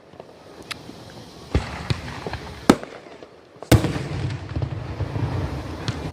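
Aerial fireworks bursting: several sharp bangs a second or so apart, the loudest about two-thirds of the way in, followed by a long crackling rumble of bursts.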